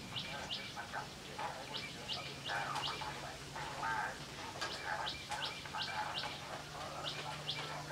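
Small birds chirping: quick runs of three or four short high chirps that repeat every second or so. A steady low hum sets in about a second in and runs beneath them.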